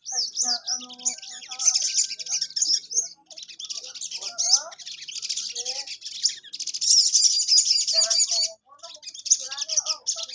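Sogon bird (sogok ontong) singing busily: long phrases of rapid, high twittering broken by a few short pauses, with lower chirping notes mixed in.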